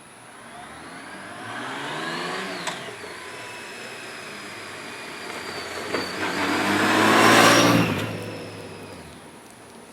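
2012 Honda Gold Wing's flat-six engine accelerating along the street: the engine note rises, drops at a gear change with a click a little before 3 seconds, then holds steady. The bike comes back up in pitch and passes close by, loudest about 7.5 seconds in with a rush of wind and tyre noise, then fades away.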